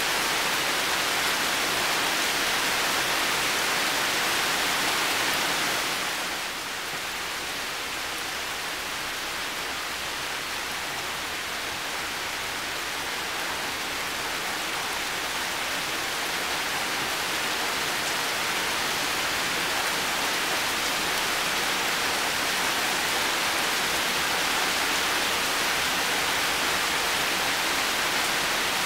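Heavy rain falling steadily, a dense even hiss. It grows quieter and duller about six seconds in, then slowly builds back to full strength.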